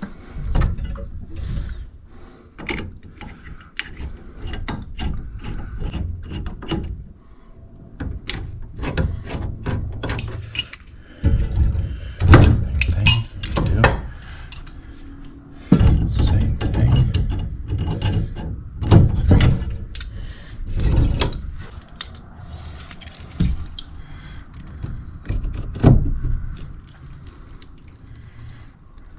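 Plumbing repair work on copper supply pipe: irregular clicking, knocking and metallic rattling from hand tools and fittings, with a few louder thumps and clunks near the middle.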